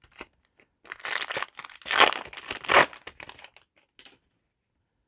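Foil wrapper of a trading-card booster pack being torn open and crinkled: a few light ticks, then a run of crackling rips from about a second in, loudest around two to three seconds in, tailing off by about four seconds.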